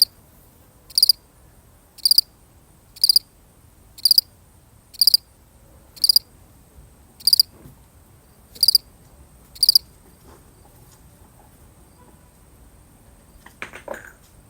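A single cricket chirping, one short high-pitched chirp about every second, then falling silent about ten seconds in. A faint clatter follows near the end.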